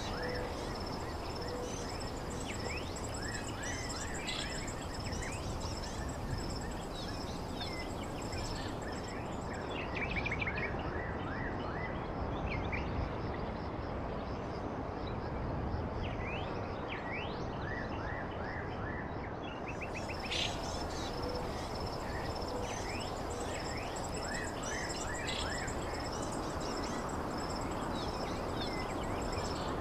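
Small songbirds chirping and twittering in many short calls over a steady background hiss, with a thin high steady tone under the chirps that drops out for about ten seconds in the middle.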